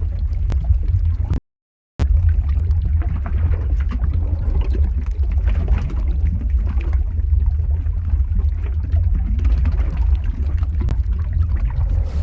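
Lava-flow ambience sound effect: a steady, deep rumble with a light crackle over it. About a second and a half in, it cuts out to silence for about half a second, then resumes.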